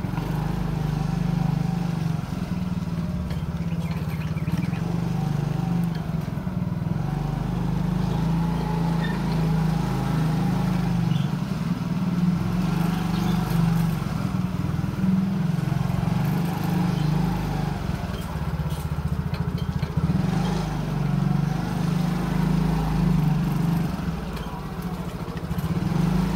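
Motorcycle engine running under way, steady throughout, its pitch rising and falling slightly with the throttle.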